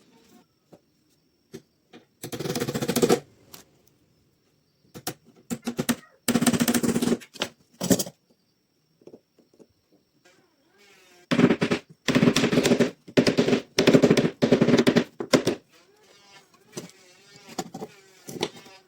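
Several short bursts from a woodworking power tool, each about a second long and made of rapid rattling strokes, with gaps between them; the busiest run of bursts falls in the middle to later part.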